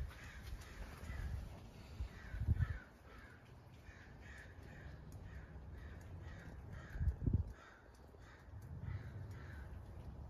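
A bird calling over and over, about two short calls a second, through most of the stretch. Two brief low rumbles, about two and a half and seven seconds in, are the loudest sounds.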